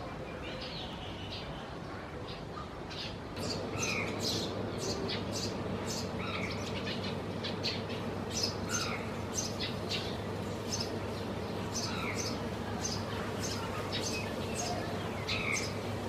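Small birds chirping. The short, sharp high chirps get louder and come about twice a second from about three seconds in, over a steady low hum.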